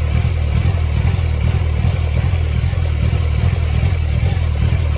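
Mercedes-Benz C230 Kompressor's supercharged 2.3-litre four-cylinder engine running at a steady idle, a loud low drone with fast even pulsing.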